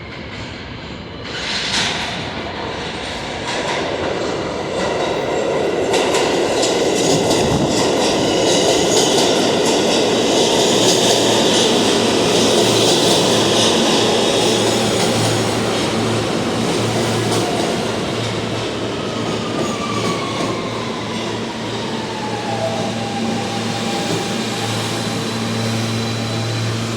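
R160 New York City subway train pulling into a station, with wheel-on-rail noise and a few sharp clacks as it arrives. Its motor whine falls in pitch as it slows to a stop, leaving a steady hum.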